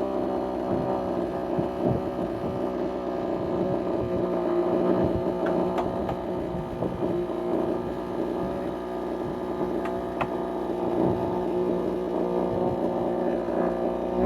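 Chainsaw on a chainsaw mill idling steadily, with a few light knocks.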